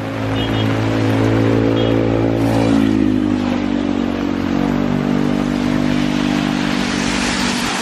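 A motor vehicle engine running close by, its pitch dropping about two and a half seconds in as it passes, over a steady hiss of heavy rain.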